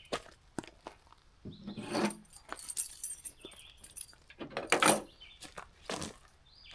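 Irregular clinks, rattles and rustles of gear being handled, with a few louder clattering bursts about two seconds in and near the middle.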